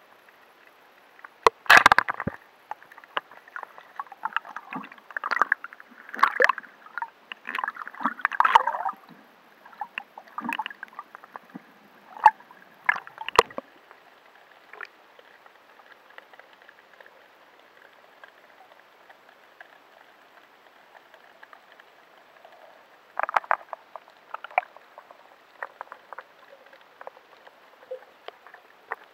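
Underwater recording: clusters of sharp clicks and short bubbling, gurgling bursts over a steady hiss, thick for the first half, then only hiss, then a few more clicks near the end.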